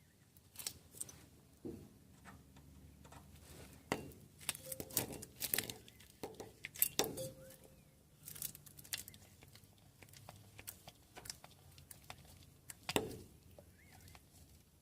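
Scattered irregular clicks and clinks of small hard objects being handled, busiest in the middle and with one louder knock near the end.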